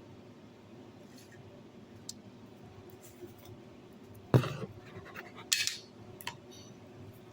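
Eating utensils clattering against a noodle bowl: one sharp knock about four seconds in, a short scrape a second later, then a light click.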